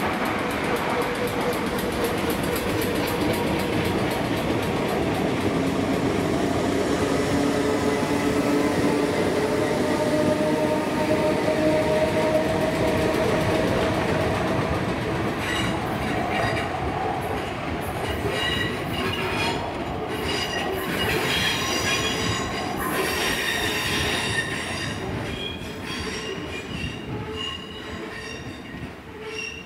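Electric multiple-unit train running on the track: a steady rumble with a motor whine that rises a little in pitch through the first half, then high wheel squeal and clicks of the wheels over rail joints from about halfway, fading away near the end.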